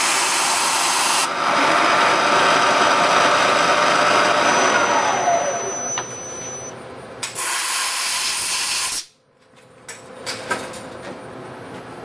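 A power tool running as it cuts down a spark plug thread insert, its pitch falling as it slows about five seconds in. A loud burst of hiss follows for about two seconds, then it cuts off suddenly, leaving a few small clicks.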